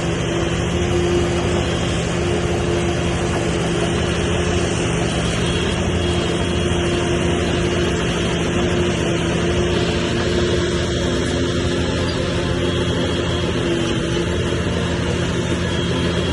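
Heavy diesel engine of earthmoving machinery running steadily at an even speed, a continuous low drone with no breaks.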